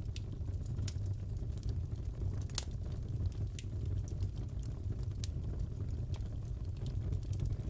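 Fireplace burning: a steady low rumble of the fire with irregular small crackles and pops, one sharper pop about two and a half seconds in.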